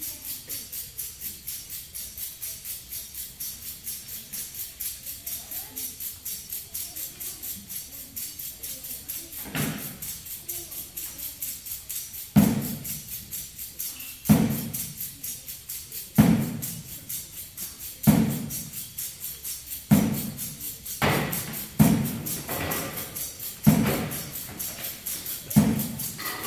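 Percussion ensemble playing: a steady, quick, high rattling pulse runs throughout. Deep drum-like strikes join about a third of the way in, roughly every two seconds at first, then coming closer together near the end.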